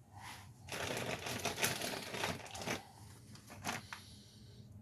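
Crinkling and rustling handling noise for about two seconds, followed by a single short knock near the end.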